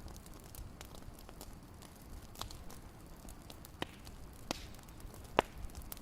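Fireplace crackling: irregular pops and snaps over a faint steady hiss, the sharpest snap about five and a half seconds in.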